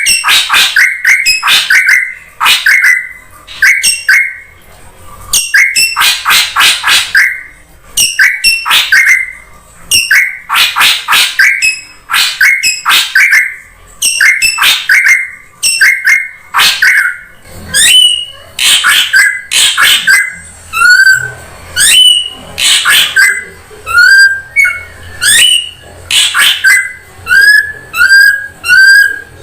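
Drongo calls from a bird-lure recording: bursts of harsh, chattering calls alternate with short whistled notes, repeating over and over. In the second half the clear whistled notes come more often.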